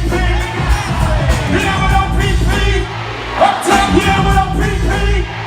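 Live hip-hop performance over a concert PA: a heavy bass beat with vocals and yells over it.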